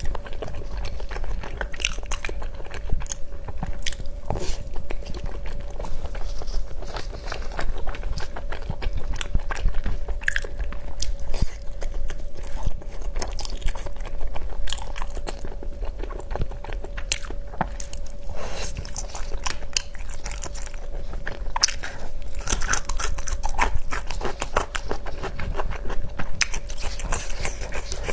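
Close-miked eating: a person biting and chewing food, with many quick, irregular crunchy clicks and smacks. A faint steady hum runs underneath.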